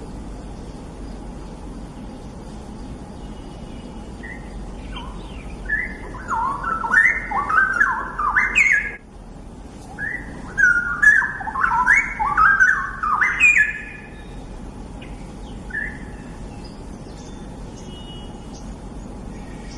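Straw-headed bulbul (cucak rawa) singing two loud phrases of rich, fast-jumping warbling notes, each about three to four seconds long, the first starting about six seconds in, with a short pause between them. Faint chirps are heard before and after, over a steady low background hum.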